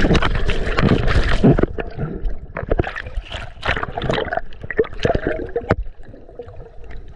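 Water sloshing and gurgling around a snorkeller ducking under the surface, with scattered splashes; busiest in the first couple of seconds, quieter near the end.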